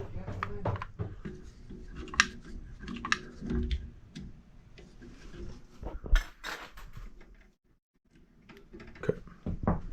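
Small metal tools and fittings clinking and clicking as they are handled on a gas valve, with a few sharper knocks, over a low hum that stops about seven and a half seconds in.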